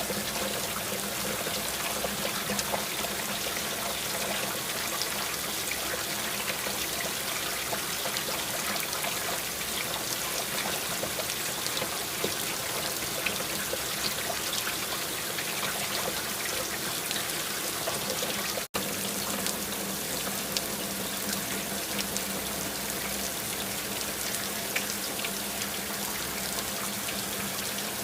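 Steady rainfall, an even wash of noise with scattered individual drop ticks, over a faint steady low hum. The sound cuts out for an instant about two-thirds of the way through.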